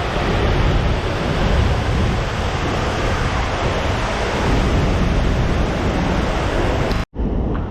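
Steady loud rush of a big waterfall, with wind rumbling on the microphone. It cuts off sharply about seven seconds in, then comes back as a duller, softer rush.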